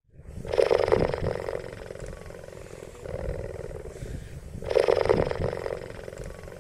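Cheetah vocalizing with a low, rough, pulsing call. It swells loud twice, about half a second in and again near five seconds in, with a quieter rumble between.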